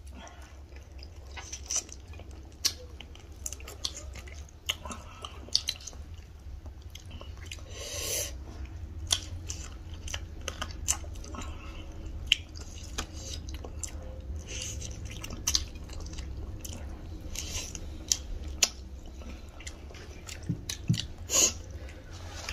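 Close-miked eating sounds: chewing, lip smacks and wet mouth clicks of people eating rice and chicken curry by hand, coming irregularly over a low steady hum.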